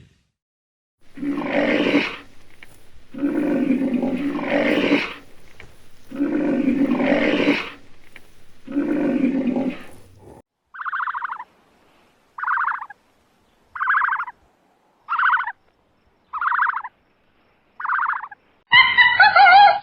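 A large wild animal roaring: four long, deep roars. These are followed by six short, higher calls about one and a half seconds apart, and a loud pitched call near the end.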